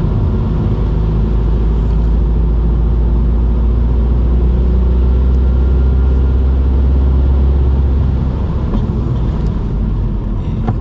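Car running along the road, heard from inside the cabin: a steady low rumble of engine and road noise.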